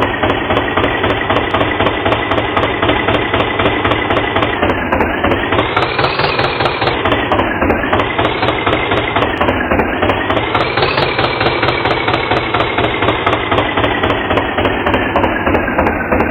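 Tractor engine running with a fast knocking chug. Its pitch rises and falls twice, about five and about ten seconds in.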